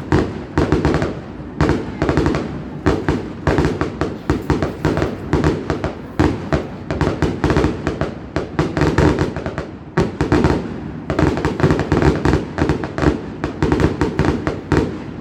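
Fireworks going off in rapid succession: a dense, unbroken run of bangs and crackles, several a second.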